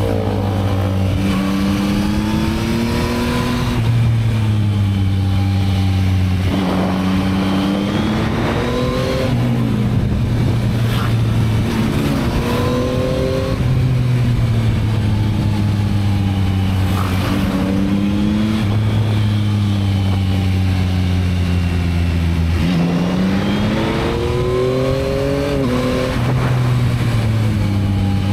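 Yamaha MT-09 (2022) 890 cc inline three-cylinder engine on its stock exhaust, heard from the bike while riding. The engine note climbs over a few seconds and then drops back, again and again, as it is accelerated through the revs and eased off or shifted, with a steady rush of noise underneath.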